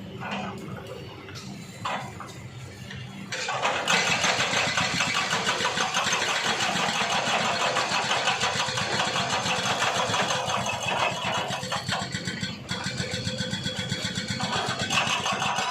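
A small engine running with a fast, rattly buzz, growing clearly louder about three and a half seconds in and then holding steady.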